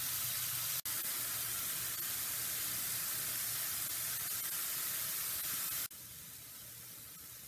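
Sliced bitter gourd sizzling in a frying pan: a steady hiss that drops suddenly to a quieter sizzle near the end.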